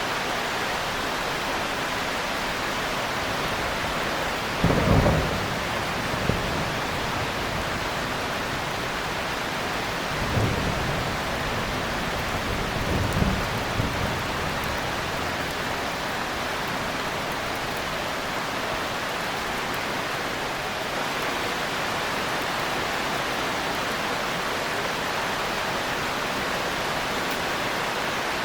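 Steady heavy rain with thunder: a loud clap about five seconds in, then two lower rumbles a few seconds apart.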